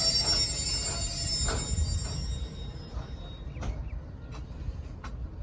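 Pakistan Railways passenger train running with a steady low rumble. A high-pitched wheel squeal fades out a little over two seconds in, followed by a few sharp clicks.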